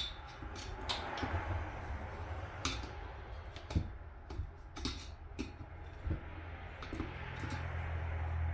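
Scattered light clicks and taps of small metal outboard-motor parts and hand tools being handled during bench reassembly, over a low steady hum.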